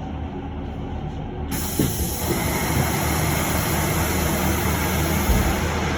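Inside an electric bus at a stop: over the low hum of the cabin, a loud, steady hiss of air starts suddenly about a second and a half in, with a short knock just after it.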